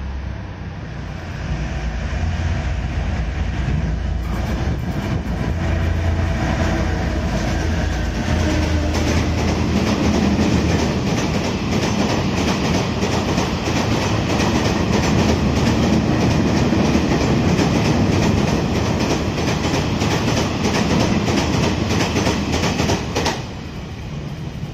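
Freight train running through a station, hauled by two diesel locomotives working in multiple: first the low drone of the locomotive engines going by, then a long string of loaded gravel hopper wagons with steady clatter of wheels over the rail joints. The noise drops away suddenly near the end as the last wagon passes.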